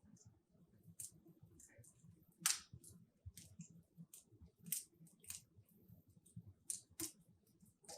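Wood logs burning in a fireplace, crackling faintly: irregular sharp pops and snaps, with louder ones about two and a half seconds in, around five seconds and near seven seconds, over a faint low rumble.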